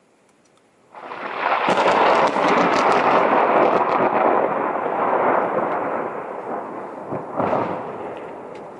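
Thunder from a lightning strike: a sudden loud crack about a second in, crackling for a few seconds, then a long rolling rumble that swells once more near the end and slowly fades.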